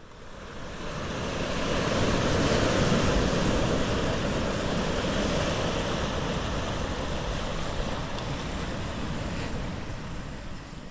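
Ocean surf: a steady rush of waves that fades in over the first couple of seconds and fades out near the end.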